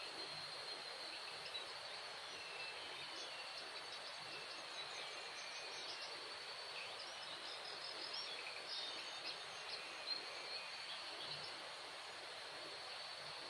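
Faint forest ambience: a steady high insect drone with scattered short bird chirps and calls throughout.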